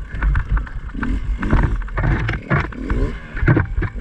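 Two-stroke enduro dirt bike riding slowly over rough trail, the engine running unevenly on and off the throttle with frequent knocks and rattles from the bike.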